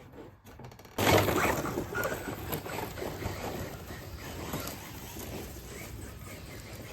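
Quiet at first, then about a second in an abrupt cut to a steady rushing noise of wind and water, as heard from the shore while an RC boat runs on the water.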